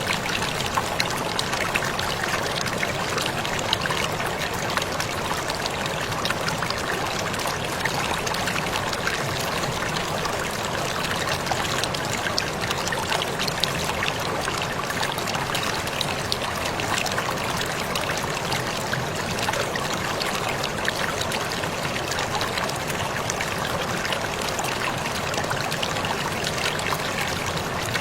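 Waterfall splashing steadily: a continuous rush of falling water peppered with many small sharp splashes and drips.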